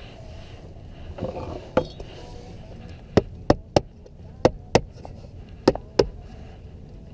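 Sharp knocks of a hammer tapping metal chimney flashing into place: one knock, then seven more, mostly in quick pairs.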